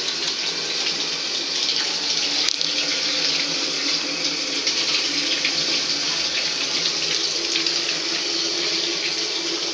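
Water running steadily from a tap into a bathtub, an even, unbroken splashing rush.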